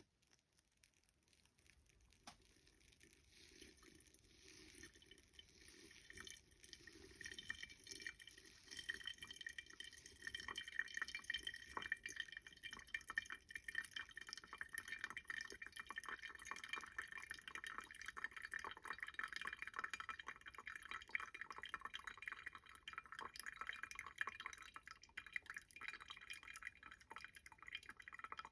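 Faint trickle and drip of hot water during coffee brewing, building up over the first several seconds and then running on steadily with fine crackling detail.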